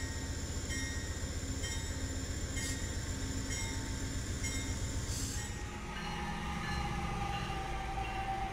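Amtrak passenger cars rolling past on the rails, a steady rumble of wheels on track. About six seconds in, it cuts to another train passing with a steady high whine over the rumble.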